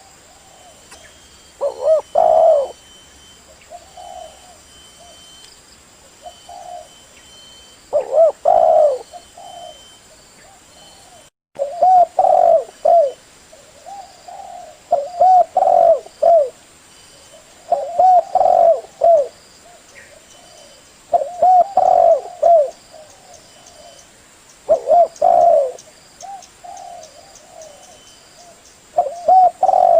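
Male spotted dove cooing: a loud phrase of low, pulsing coos every three to four seconds, with softer coos between them. This is the call used as a lure to draw in other doves. The audio drops out briefly a little after eleven seconds in.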